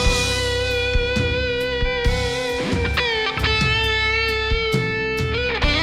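Live band instrumental passage: an electric guitar holds long sustained notes over steady drums and bass, then moves to a lower note near the end.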